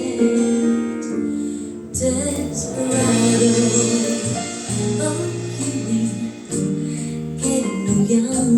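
Recorded ballad with a female singer and instrumental accompaniment, played back through a small full-range speaker driven by a DIY class-D power amplifier and picked up by a smartphone.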